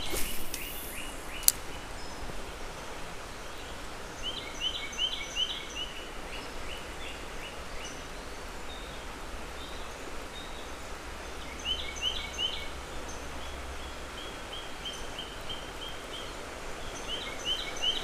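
A songbird singing, repeating a short phrase of quick high notes every few seconds over a steady outdoor hiss. A brief whoosh and a sharp click come in the first two seconds.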